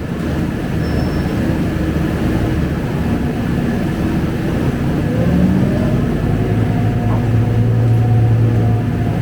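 Scania K250UB single-decker bus under way, its diesel engine and drivetrain running. The engine note rises about five seconds in, then holds steady and a little louder to the end.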